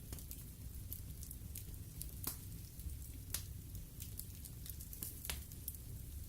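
Wood fire burning in a fireplace: a steady low rumble of flame with irregular crackles and pops, a few sharper pops standing out.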